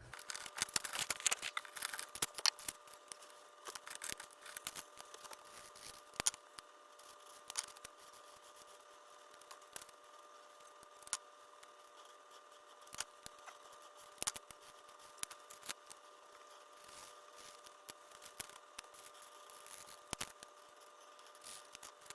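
Sped-up scratching and tapping of a marker colouring in a paper savings chart: quick, irregular small clicks, busiest in the first few seconds and sparser after. A faint steady high hum runs underneath.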